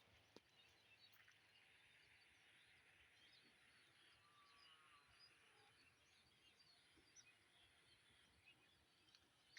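Near silence: faint outdoor ambience with scattered faint, high chirps of distant birds.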